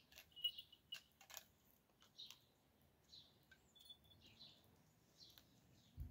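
Faint, scattered bird chirps over near silence, with a few soft clicks in the first couple of seconds.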